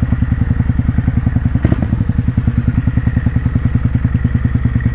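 Motorcycle engine running at low revs with a steady, even pulse of about a dozen beats a second. There is a brief click about a second and a half in.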